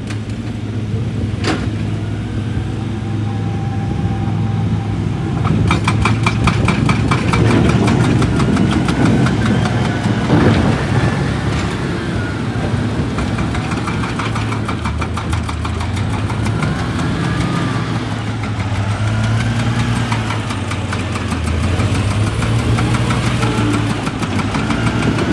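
Heavy diesel excavator engine running, its pitch rising and falling under hydraulic load. A fast rattle of rapid impacts joins it from about a quarter of the way in for several seconds.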